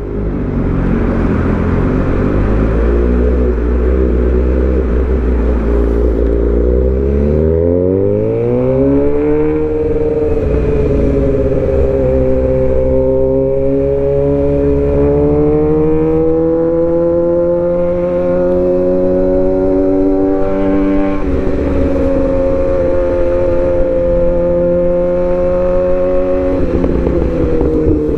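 Suzuki GSX-R750's inline-four with aftermarket headers, midpipe and M4 slip-on, heard from the rider's seat while riding. It pulls up through the revs for the first several seconds, then holds a steady, slowly rising cruise, with a brief dip in pitch about twenty seconds in and again near the end.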